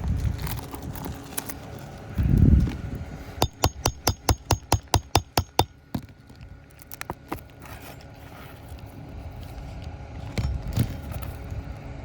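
Roofing tools working at a nail in an asphalt shingle: a dull thump, then a quick run of about fourteen sharp metallic taps over two seconds, as a roof snake (shingle ripper) is worked under a hard-driven roofing nail.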